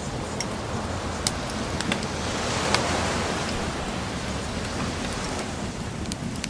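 A sea wave washes in, swelling about two to four seconds in and ebbing again, while a wood bonfire crackles with scattered sharp pops.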